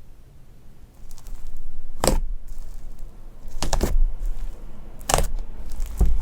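Fluffy slime being stretched and squished by hand, giving four short bursts of fine crackling after a quiet first second.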